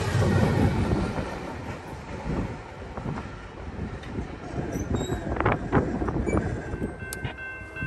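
Norfolk Southern diesel locomotives rumbling past at close range, the rumble fading over the first couple of seconds. A quieter distant train follows, with a few sharp clanks about five seconds in and a steady high tone setting in near the end.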